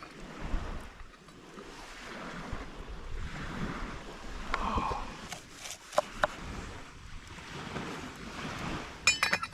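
Wind rushing in slow gusts that swell and fade, with a few sharp clicks a little past the middle and a quick rattle of clicks near the end.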